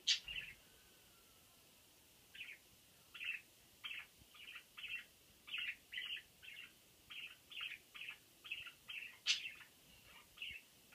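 Budgerigar chirping: a run of short, high chirps, about two a second, beginning about two seconds in.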